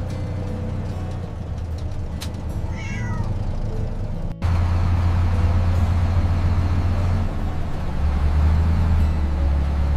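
A cat meows once, a single falling call, about three seconds in, over a steady low hum. Just after four seconds the sound drops out for an instant, and the low hum comes back louder and steady.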